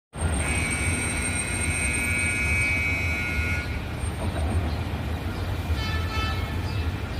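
Light rail train with a steady low rumble. A sustained high-pitched tone sounds from about half a second in to about three and a half seconds, then a shorter one comes about six seconds in.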